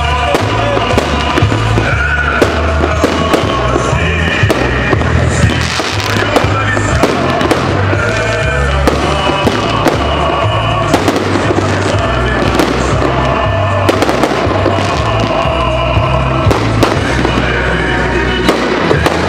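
Fireworks salute: bangs and crackles of fireworks bursting overhead again and again, over loud music with a heavy bass beat.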